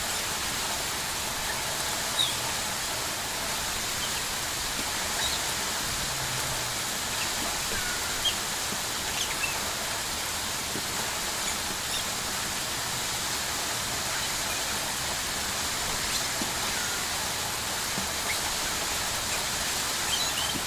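Rain falling steadily: an even hiss with a few sharper splashes.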